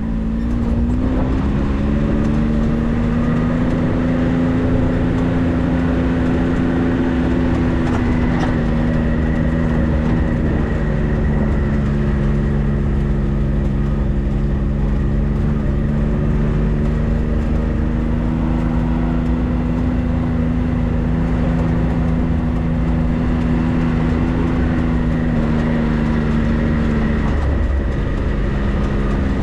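A vehicle's engine running steadily under way, with road and tyre rumble. The engine note rises slightly about a second in, holds, then drops near the end.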